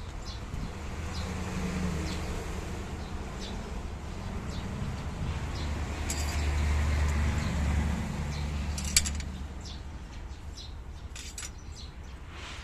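A low engine rumble swells and fades twice, with birds chirping now and then over it. A single sharp click comes about nine seconds in.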